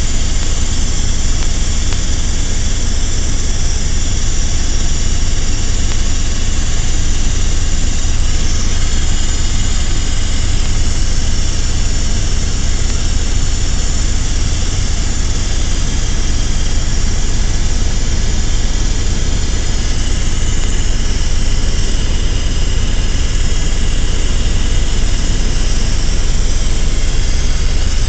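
Helicopter running steadily, a loud unchanging mix of deep rotor thrum and turbine hiss with no let-up.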